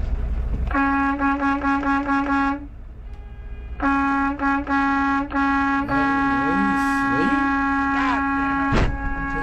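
Truck horn honking: a quick string of about seven short blasts, then a long blast held for several seconds with a few brief breaks. It is sounded as a warning at a vehicle ahead that keeps rolling backward toward the truck.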